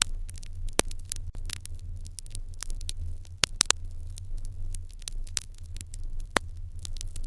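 Wood fire in an irori hearth crackling: a quick, irregular run of sharp snaps and pops, with a handful of louder ones scattered through, over a steady low hum.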